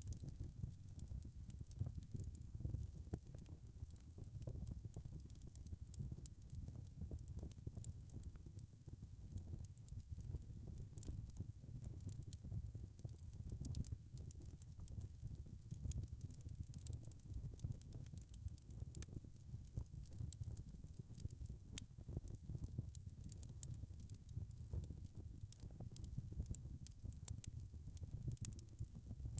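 Wood fire crackling: frequent small, irregular pops over a steady low rumble of burning.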